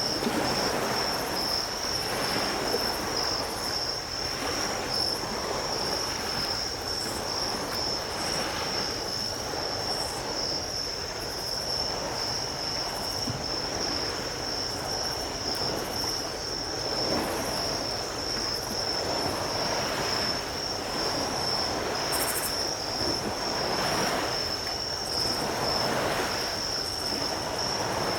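Ocean surf washing onto a beach, its hiss swelling and easing every few seconds, under a steady high-pitched trilling of insects.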